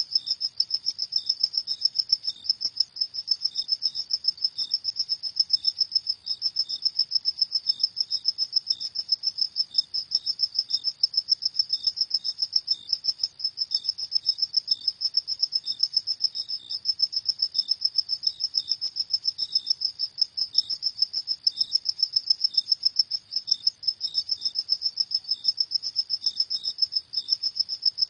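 Crickets chirping in a steady, fast pulsing trill, high-pitched, with a second fainter chirp a little lower in pitch.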